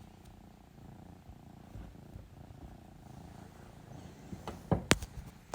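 Domestic cat purring, a low fluttering rumble. Near the end, two sharp knocks, the loudest sounds here.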